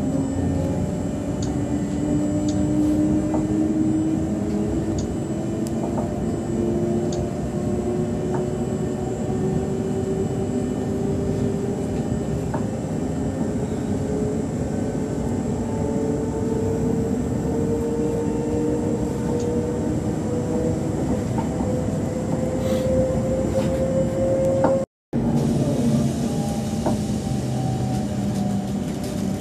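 Suburban train accelerating: a whine from its drive rises slowly and steadily in pitch over a constant running rumble. The sound drops out briefly near the end, then carries on.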